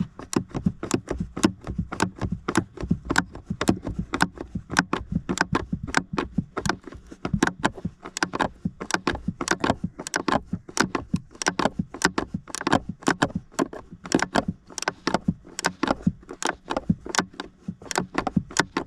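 Ratcheting wrench clicking steadily, about three to four clicks a second, as it backs out a blower motor mounting screw.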